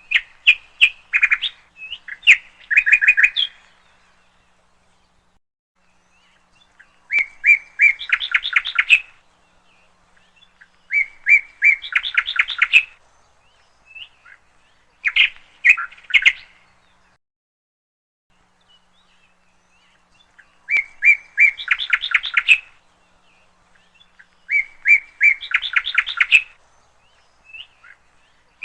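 A songbird singing the same short phrase over and over: a couple of clear chirps, then a quick rattle of notes. Each phrase lasts about two seconds, with silent gaps of a few seconds between.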